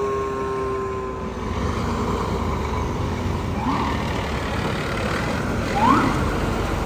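Fire apparatus on the move, its engine and traffic rumbling steadily. A siren's falling tone fades out in the first second or so, then two short rising siren chirps follow a couple of seconds apart.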